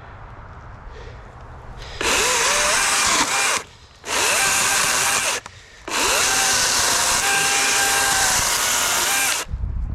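DeWalt 60-volt brushless electric chainsaw, 16-inch bar, cutting logs: the motor runs in three bursts, each spinning up with a rising whine, with short pauses between and the longest run last.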